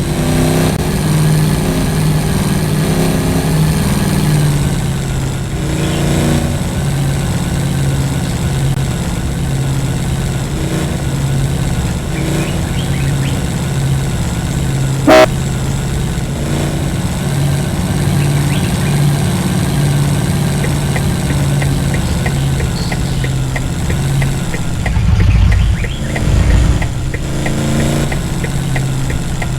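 A vehicle engine running steadily under load as it is driven, with one sharp short knock about halfway through and a couple of heavy low thumps near the end.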